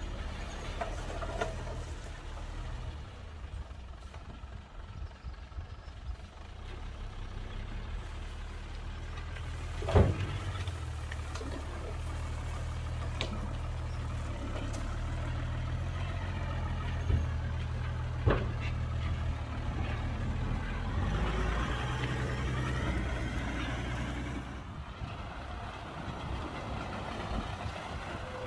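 Heavy diesel earthmoving machinery running steadily with a low engine hum. A loud sharp bang comes about a third of the way in, and two lighter knocks about a second apart come a little past halfway.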